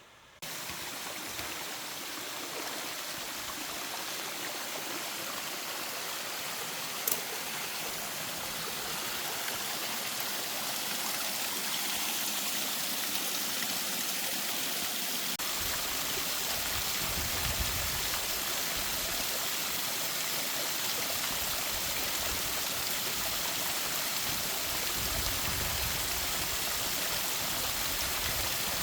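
Mountain stream flowing over rocks: a steady rush of water that starts suddenly near the beginning and grows a little louder as it goes on. There is a single sharp click about seven seconds in.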